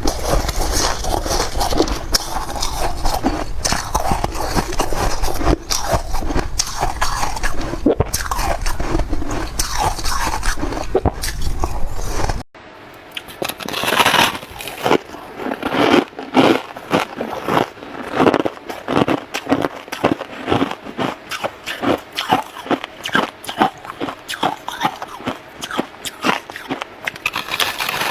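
Someone biting and chewing soft freezer frost, crisp crackling crunches. For the first half the crunching is dense with a low rumble beneath it; after an abrupt cut about halfway it comes as separate crunching bites in a steady rhythm.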